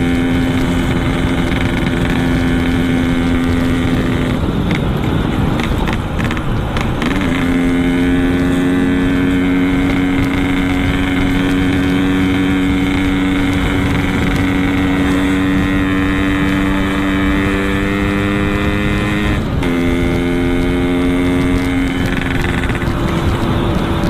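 Yamaha RX-King's two-stroke single-cylinder engine with a Boban C33 aftermarket exhaust, running at steady cruising revs while riding. The revs change briefly a few seconds in and again near the end.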